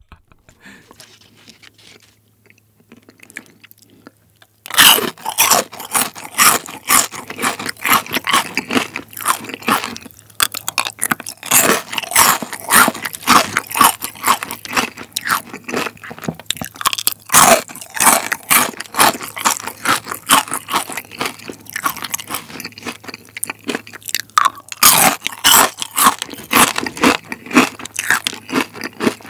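Loud crunching and chewing of crispy deep-fried chicken skin: quiet for the first few seconds, then a dense run of crunches from about five seconds in.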